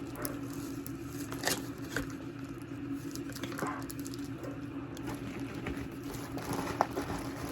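Plastic packaging crinkling and rustling as items are handled and unwrapped, with a few sharper clicks, over a steady low hum.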